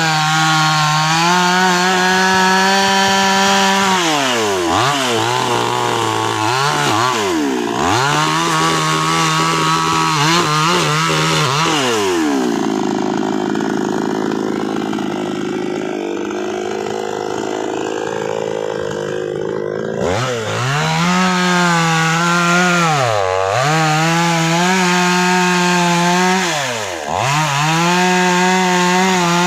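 Chainsaw engine running at high revs while cutting wood, its pitch dipping and recovering again and again as the chain loads up in the cut. For several seconds in the middle it runs at a lower, steadier pitch before picking up again.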